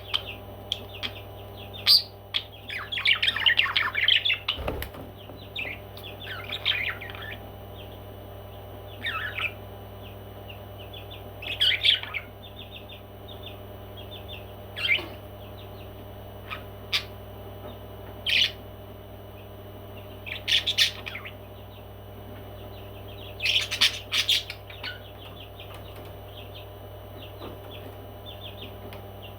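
Pet parrots chirping and squawking in short calls every few seconds, over a steady low background hum. A brief low thump comes about five seconds in.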